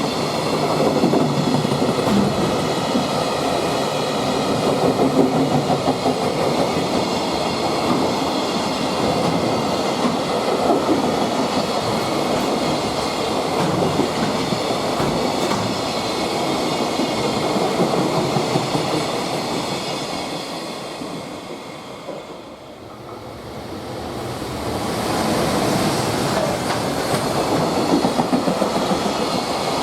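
Freight train passing at speed, its wagons clattering steadily over the rail joints. About two-thirds of the way through the sound drops away briefly, then a second freight train comes in and builds to the same steady clatter.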